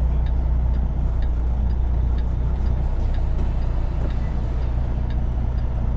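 Semi truck's diesel engine running with a steady low drone heard from inside the cab, with a faint tick repeating about every two-thirds of a second.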